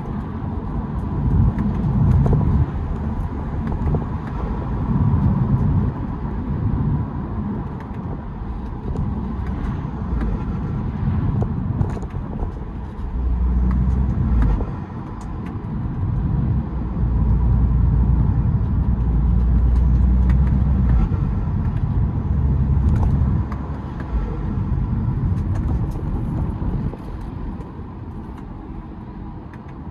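BMW 320d's four-cylinder turbodiesel heard on the move, with intake noise from an open K&N cold air intake, pulling and easing off in turn. It is loudest in the middle and quieter near the end.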